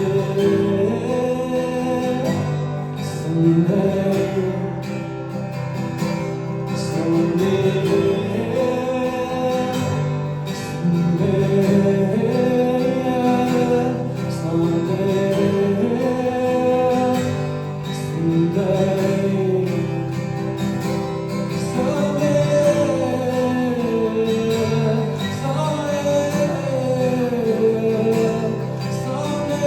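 Live performance of a song: acoustic guitar playing, with a voice singing over it.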